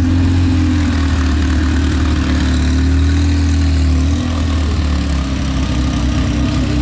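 Air-cooled flat-six of an early Porsche 911 Carrera running at low revs as the car creeps away. It is a steady low engine note that wavers slightly, then eases off about four seconds in.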